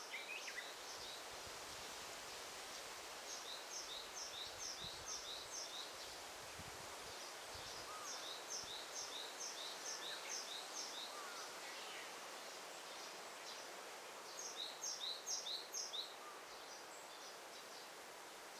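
Daytime forest ambience: a songbird sings three runs of quick, high, repeated two-note phrases over a steady background hiss, with a few faint scattered chirps between.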